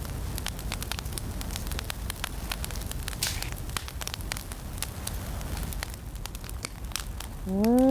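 A fire crackling with irregular sharp pops, over a steady low wind rumble. Near the end comes a brief voice-like sound that rises and falls in pitch.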